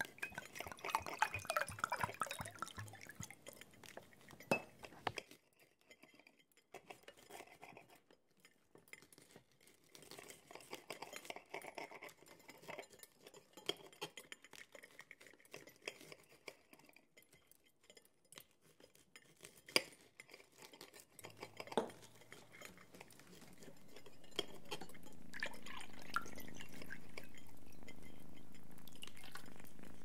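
Scattered light clinks of glass and china, as of dishes and cutlery being handled, with one sharper clink about two-thirds of the way through. Near the end a steady low hum fades in and holds.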